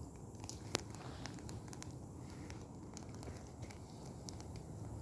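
Bonfire of dry branches crackling, with irregular sharp pops and snaps and one louder snap just under a second in.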